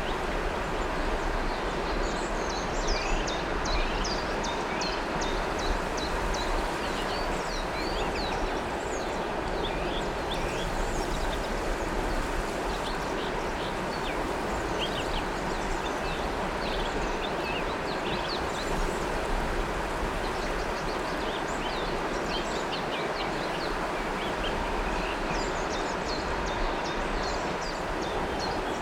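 River water flowing steadily, with many small birds chirping and whistling over it in quick, short high notes throughout.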